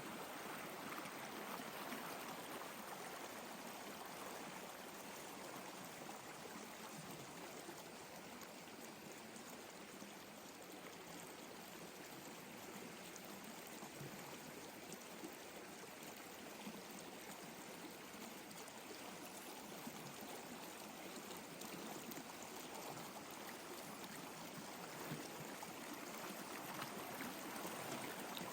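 Steady flowing water, like a small stream running.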